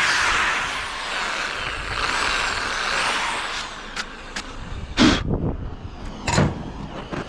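A loud, steady machine noise, likely a power tool working the log, dies away about three and a half seconds in. It is followed by a series of sharp knocks, two of them loud.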